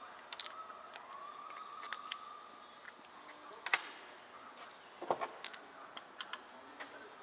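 Scattered light clicks and knocks of a compression gauge and hand tools being handled while the gauge is moved between cylinders of a two-stroke engine, with a faint steady whine for about two seconds near the start.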